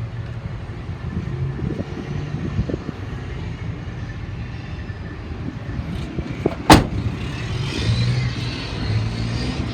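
Low rumble of passing road traffic, with one sharp knock about two-thirds of the way through.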